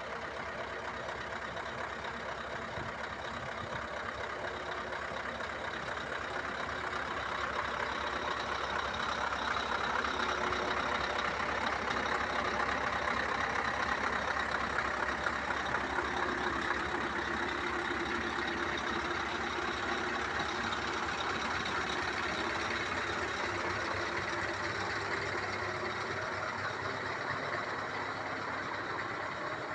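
Scania R500 truck's V8 diesel engine running steadily, growing a little louder towards the middle and easing off again.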